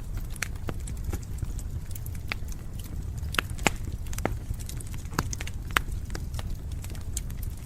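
Burning firewood crackling, with irregular sharp pops and snaps over a low steady rumble; a few louder pops come in the middle.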